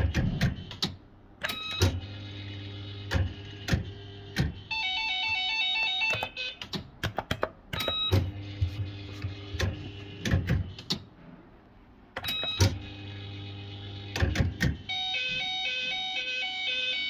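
Bell-Fruit FireCracker fruit machine in play: sharp clicks, stretches of steady low hum, and the machine's beeping electronic tune, which plays briefly about five seconds in and again from about fifteen seconds in.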